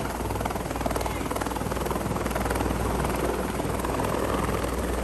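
Helicopter in flight heard at close range: steady engine and rotor noise with a fast, even rotor beat and a low hum.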